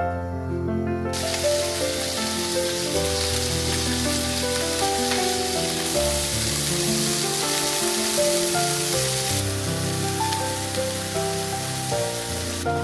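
Food sizzling as it fries in a pan, starting suddenly about a second in and easing slightly later on, over background music.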